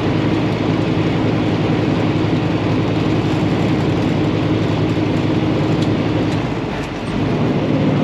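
Semi truck's diesel engine pulling steadily under load up a mountain grade. About seven seconds in, the engine note drops away for a moment and comes back as the driver downshifts a gear.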